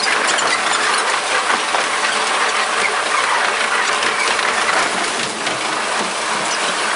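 Running noise of a KiHa 47 diesel railcar, sped up five times: a steady, dense rattling hiss full of fast clicks.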